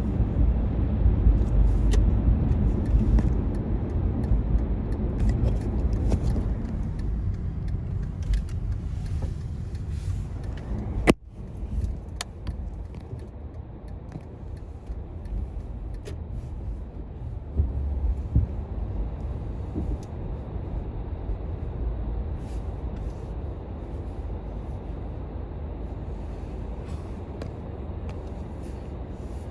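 Automatic tunnel car wash equipment running, a steady low rumble of machinery, louder at first. About eleven seconds in there is a sharp click and the sound drops abruptly to a quieter steady rumble with light scattered ticks.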